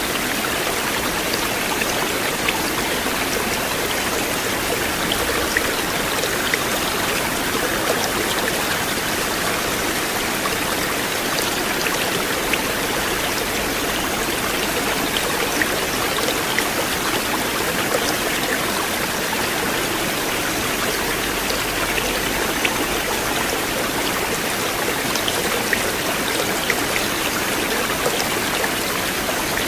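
River water flowing steadily, with small splashes and trickles ticking through the rush.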